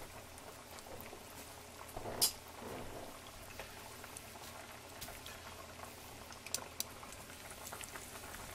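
Breaded pork cutlet shallow-frying in hot oil in a frying pan: a steady bubbling sizzle with scattered small pops, and one sharp pop about two seconds in.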